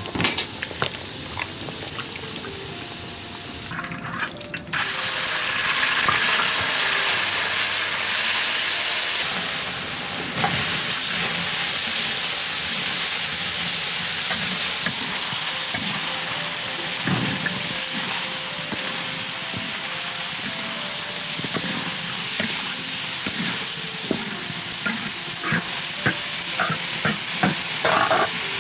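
A few clinks for the first few seconds, then food goes into hot oil in a large wok and sets off a sudden, loud, steady sizzle of stir-frying. The spatula scrapes and clacks against the wok, most of all near the end.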